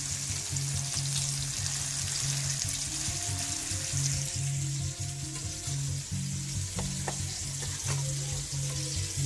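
Pork chops sizzling in hot oil in an enameled cast iron skillet, a steady frying hiss. A few light clicks come near the end.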